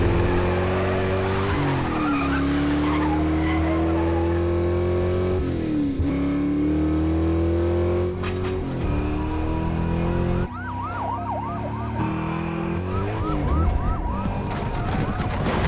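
Car engine accelerating hard in a film car chase, its pitch climbing and dropping back at each gear change. About two-thirds of the way in, a police siren joins with quick rising-and-falling wails over the engine.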